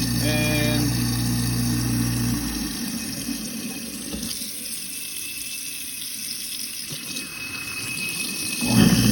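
Garbage disposal motor running over water flowing from the tap into the sink; about two and a half seconds in it is switched off and winds down, leaving just the running water, and near the end it starts up again. The jam freed with a hex key from below, it spins freely again rather than only humming.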